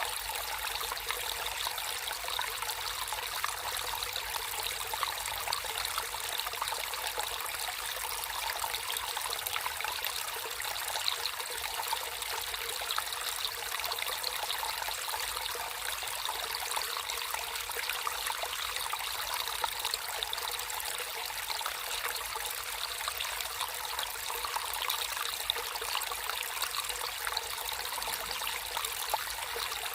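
Water in a small natural stream flowing and trickling steadily, an even rush made of many small splashes with no pauses.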